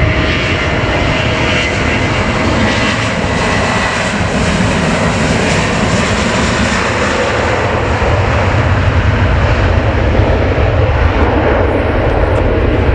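Boeing 737-800's twin CFM56 turbofan jet engines running at high power on departure, a loud, steady jet noise.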